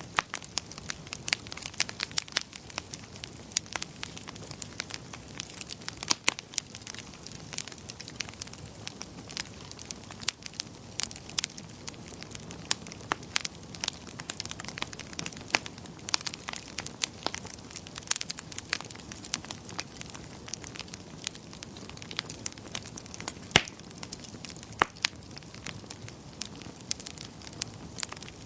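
Wood fire crackling in a fireplace: irregular sharp pops and snaps, some louder than others, over a steady low hiss of burning.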